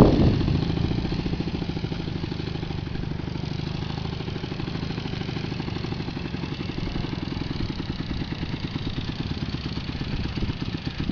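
Motorcycle engine idling steadily with an even, rapid low putter, settling down during the first second or two.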